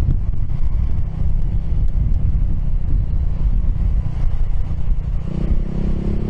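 Heavy wind rumble on the microphone while riding a Piaggio X10 scooter. From about five seconds in, a steady engine hum comes through underneath.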